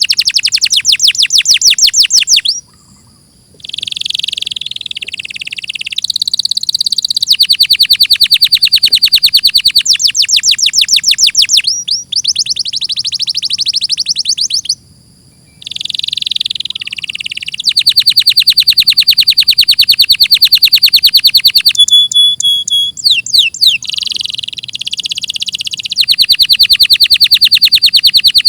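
Domestic canary singing a long song of fast trills and rolls made of rapidly repeated high notes, broken by brief pauses about three seconds in and again about halfway through.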